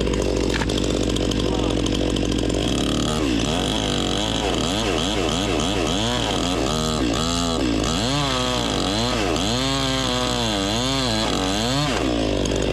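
Chainsaw cutting cottonwood with a small chain. Its pitch is steady for the first few seconds, then rises and falls about twice a second as it digs into the wood and recovers, and it stops near the end. A steady low hum runs underneath.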